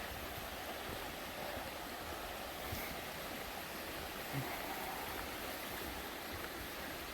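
Steady rush of river water flowing over rocks, with a faint brief knock about four seconds in.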